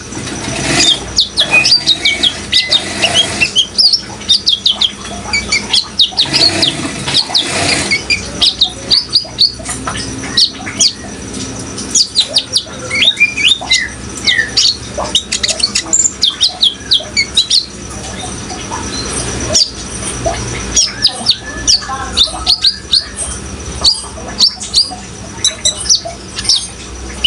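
Kolibri ninja sunbirds singing: fast, high-pitched chirps and twitters in quick runs, going on continuously over a steady background rush of water.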